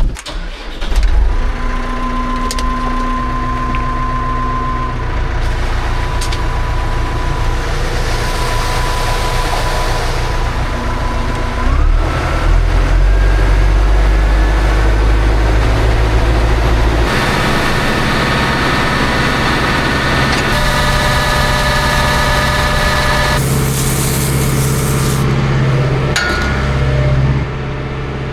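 A vehicle engine starts about a second in and keeps running, its pitch and load shifting around twelve seconds and again around seventeen seconds.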